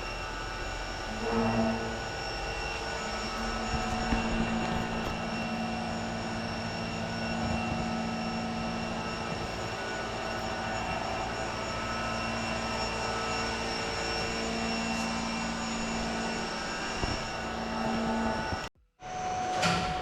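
Machine running steadily on an electric motor, a constant hum with a whine above it; it stops abruptly near the end.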